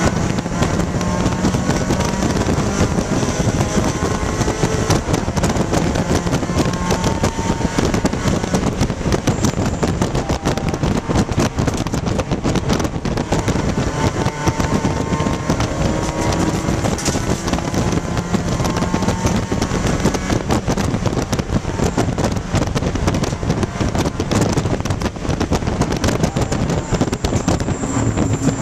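1995 Dodge Neon ACR's four-cylinder engine at full throttle, heard from inside the cabin, its pitch climbing through each gear and dropping back at every upshift. A constant crackling rattle runs over it.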